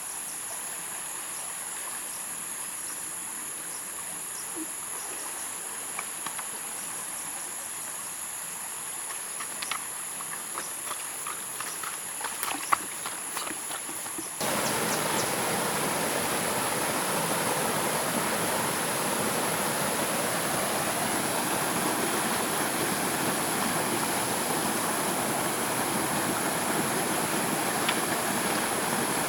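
Steady high-pitched insect chirring, with a few light clicks and taps. About halfway through it cuts abruptly to the louder, steady rush of a flowing stream.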